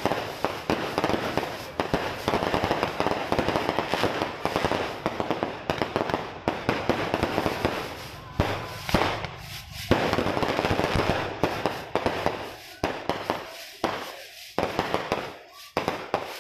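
Fireworks display: a dense run of crackling pops and bangs from aerial shells bursting, with a sharper bang about ten seconds in, thinning out into more spaced pops in the last few seconds.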